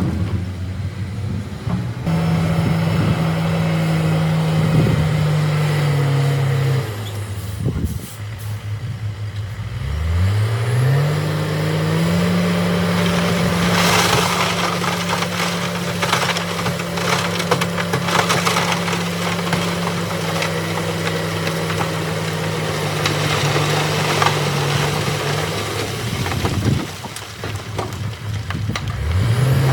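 Diesel engine of heavy earthmoving machinery working under load. Its pitch drops about seven seconds in and revs back up a few seconds later. Knocks and cracks, as of rock being moved, run over the engine.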